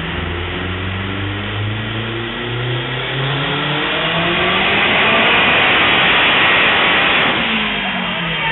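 Acura RSX engine under full throttle on a chassis dyno, its pitch climbing steadily to a loud peak, then letting off about seven seconds in, with the revs falling away.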